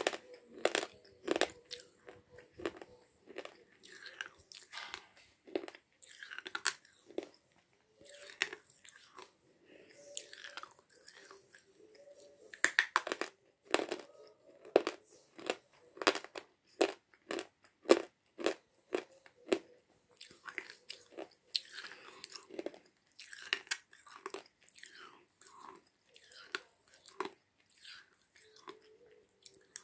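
A person biting and chewing a hard Jeevan-brand slate pencil: sharp, crisp crunches come singly and in quick runs, with quieter chewing between. The pencil is very hard and difficult to bite.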